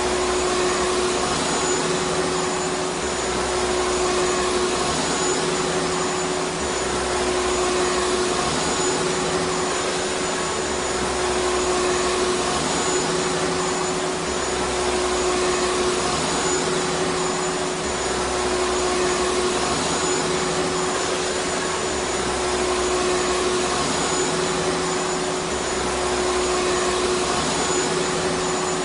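Vacuum cleaner running steadily: a constant rush of air with a steady motor hum.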